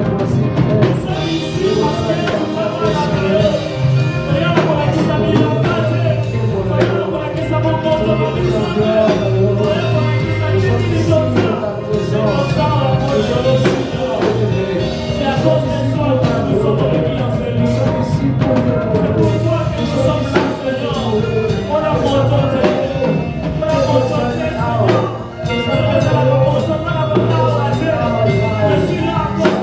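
A live gospel worship band playing with singing, over a steady bass line and drums.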